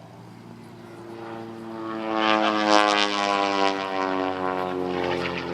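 Pitts Special aerobatic biplane flying past with its piston engine and propeller running. The sound swells to its loudest in the middle, and the pitch then falls steadily as the aircraft passes.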